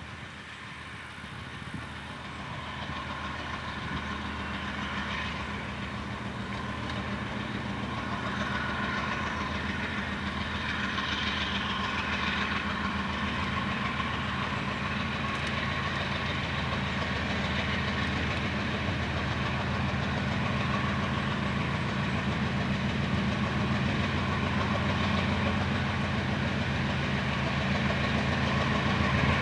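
GE C36-7i diesel-electric locomotive running, its engine's low steady drone and a broad rumble growing steadily louder over the whole stretch.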